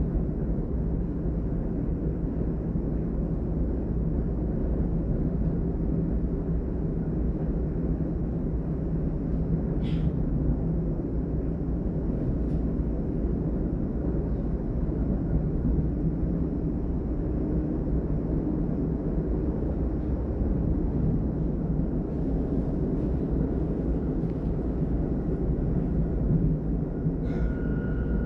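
A DB Class 422 electric multiple unit (S-Bahn train) running at speed, heard inside the passenger car: a steady rumble of wheels and running gear with a low hum. A sharp click comes about ten seconds in, and another comes near the end, after which a thin high steady tone sets in.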